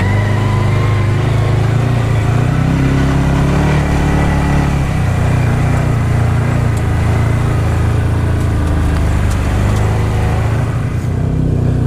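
Side-by-side utility vehicle's engine running steadily while driving along a trail, its pitch rising slightly a few seconds in.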